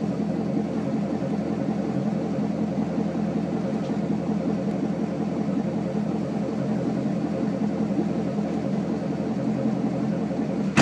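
Chevrolet Corvette C6 Z51 V8 idling steadily through a straight-piped exhaust, a constant low rumble with no revving.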